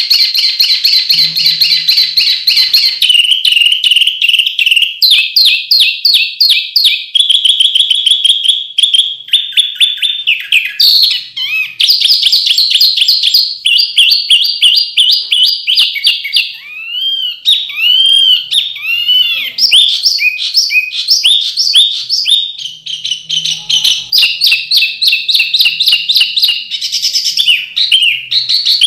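Songbird singing a loud, non-stop song of rapid, sharp high-pitched trills and note volleys, the 'sharp and dense shots' (tembakan tajam dan rapat) prized in masteran recordings. The song switches to a new repeated phrase every second or two, with a run of swooping, arched whistles in the middle.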